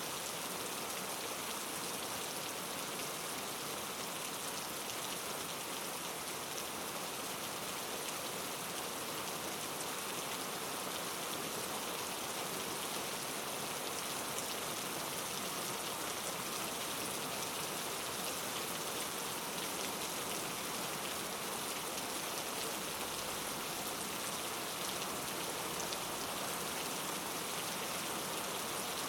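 Steady rain falling, a dense even hiss of drops hitting a surface with fine individual patters, no thunder.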